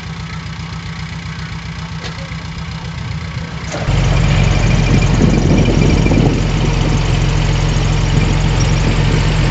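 Heavy diesel engine of earthmoving machinery running steadily. About four seconds in, the sound jumps suddenly louder and stays loud.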